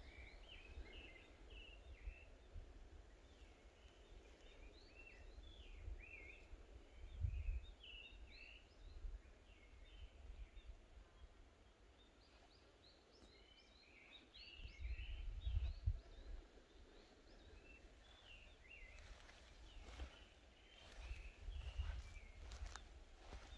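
Small birds chirping and twittering in quick runs of short high calls, with a lull about halfway through. Low wind rumble on the microphone swells now and then, and a few short clicks come in near the end.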